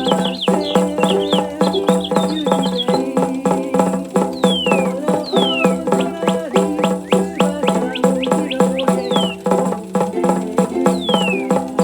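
Tambourine rattled rapidly by a motorised cappuccino-frother mixer, about five jingles a second, with a sound-activated toy bird chirping at the start and giving several downward-sliding whistles. Steady musical notes run underneath.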